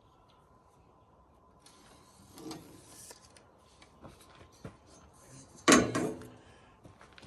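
Work-bench handling noises: rubbing and scraping with a few small clicks, and one loud knock about six seconds in, like a piece of wood or pipe being set down or knocked.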